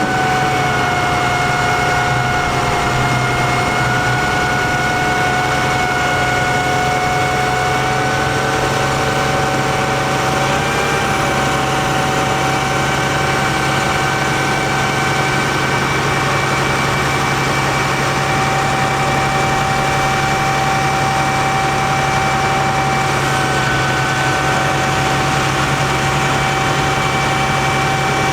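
International DT466 diesel engine of a digger truck running at a steady speed, with a steady high-pitched whine over the engine note that dips slightly in pitch a couple of times.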